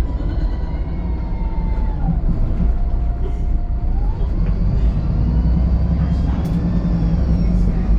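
VDL SB200 Wright Pulsar 2 bus running, a low rumble under a whine that drops in pitch about two seconds in, holds low, and climbs again about four seconds in; a higher whine rises and falls near the end.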